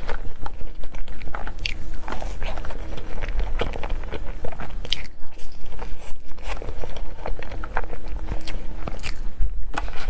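A person eating dessert close to the microphone: biting and chewing, with many sharp, irregular mouth clicks.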